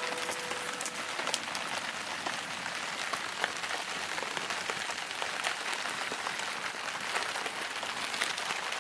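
Wood fire crackling in a fireplace: a steady hiss with frequent sharp pops. A held musical note dies away in the first second.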